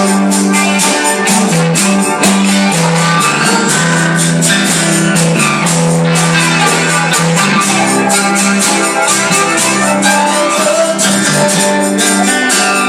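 Live gospel band music with a steady beat, played through a passage where no words are sung.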